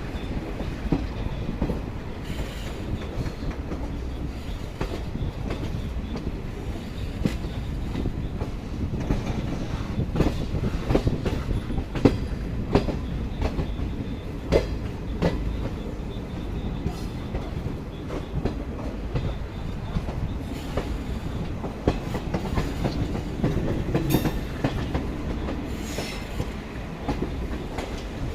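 Passenger train wheels running over rail joints and points as the train switches onto a loop line: a steady low rumble with many irregular sharp clicks and clatters.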